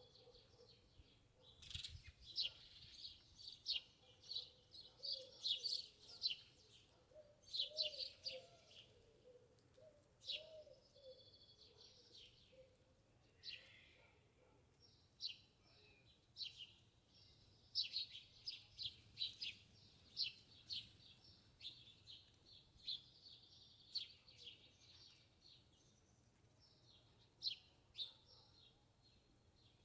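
Small birds chirping and twittering in quick runs of short high notes, starting and stopping in bursts. A faint lower wavering call runs underneath through the first half.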